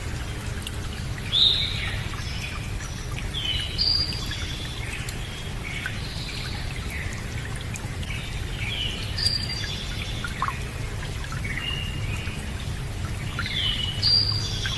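Several small birds chirping and calling over a steady sound of running water; the loudest chirps come three times, about a second and a half in, at about four seconds, and near the end.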